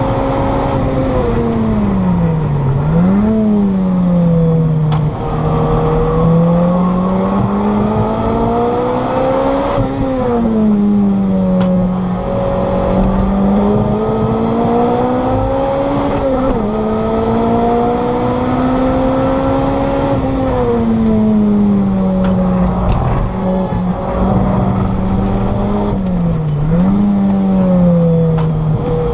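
Lotus Elise SC's supercharged four-cylinder engine heard from inside the cabin on track, its pitch climbing under acceleration and dropping for gear changes and braking into corners several times.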